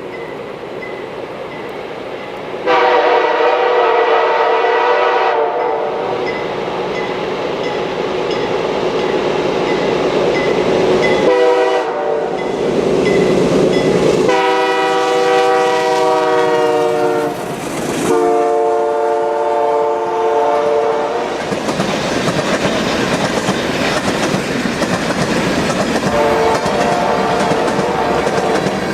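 CN freight locomotives, a C40-8M leading, approach sounding a multi-note air horn in several long blasts, one a few seconds in, two more in quick succession past the middle and another near the end. Under the horn, the rumble of the locomotives and the clicking of wheels over the rail joints grow louder.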